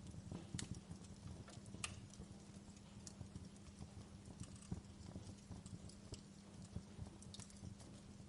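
Wood fire crackling in a fireplace: irregular small pops and snaps over a low, steady rumble.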